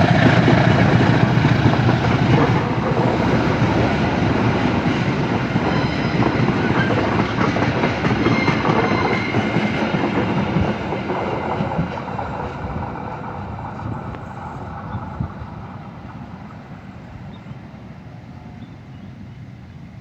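Passenger train hauled by a KAI CC206 diesel-electric locomotive rolling past on the rails, its wheels clattering over the track, loud at first and fading steadily as the train moves away.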